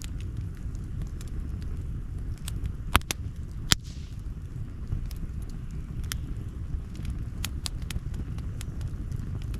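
Campfire crackling: irregular sharp pops and snaps from the burning wood over a steady low rumble, with two louder pops about three seconds in.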